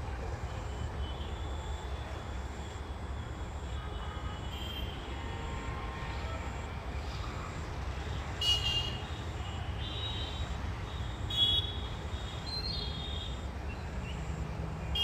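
A bird calling in short high-pitched notes a few times, the loudest twice, over a steady low rumble.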